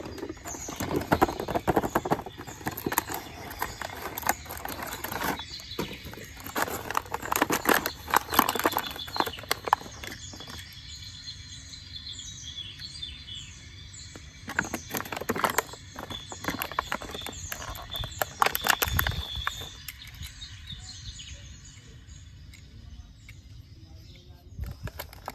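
Irregular clicks and knocks, with birds chirping repeatedly in short high falling notes in the background.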